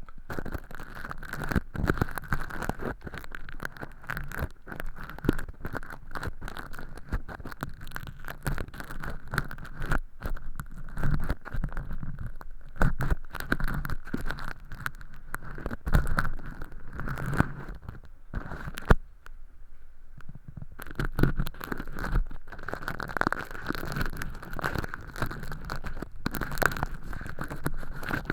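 Ear pick scraping and crackling inside a silicone ear model's canal, peeling away thin-skin fake earwax, as a dense run of small clicks and scratches that eases briefly about two-thirds of the way in.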